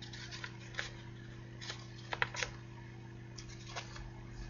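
Faint, irregular small clicks, about ten of them spaced unevenly, over a steady low electrical hum.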